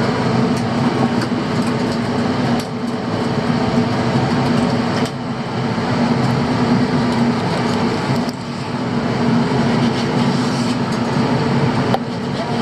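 Fishing boat's engine running at a steady drone, with a constant low hum under a wash of noise.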